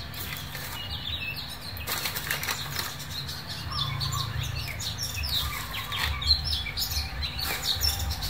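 Scattered short chirps of small birds and light ticks over a low steady rumble.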